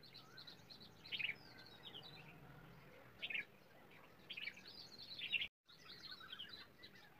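Small birds chirping and twittering in quick, high calls, with louder bursts of trills about a second, three seconds and five seconds in. The sound cuts out for an instant about five and a half seconds in.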